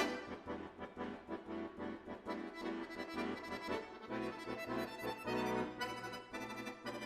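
Accordion music: a quick melodic line over steady bass notes.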